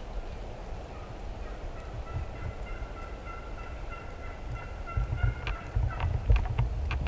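A turkey calling: a drawn-out, slightly trilling note held for about four seconds, then a few sharp clicks near the end. Wind rumbles on the microphone throughout.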